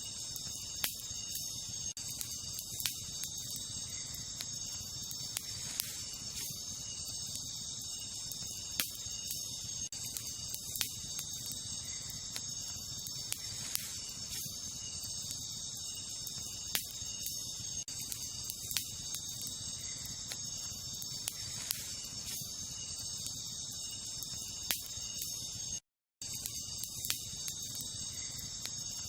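Wood campfire crackling, with sharp pops every second or two, over a steady high chorus of night insects. The sound cuts out completely for a moment near the end.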